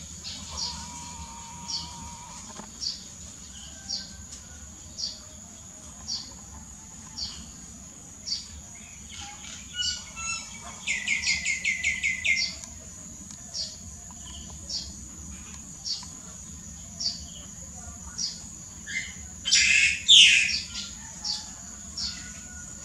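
Birds chirping outdoors, one short chirp about once a second, with a quick run of about eight chirps around the middle and a louder, noisier call near the end, over a steady high insect whine.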